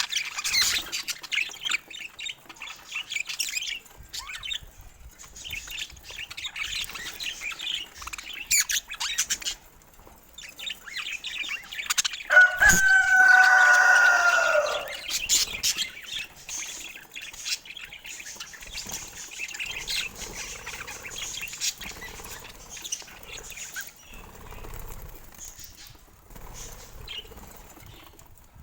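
Budgerigars chirping and chattering with wing flutters, busiest in the first ten seconds. About halfway through comes one loud, drawn-out call, falling slightly in pitch, and after it the chirping grows sparser.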